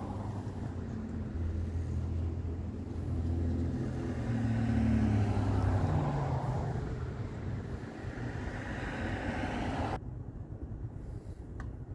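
Motor vehicle engine running, with a steady low hum that swells and eases off in the middle, then cuts off abruptly about ten seconds in.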